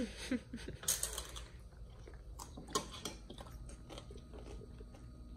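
Children eating: quiet chewing and crunching as a crisp corn tostada is bitten, with a few light clicks scattered through.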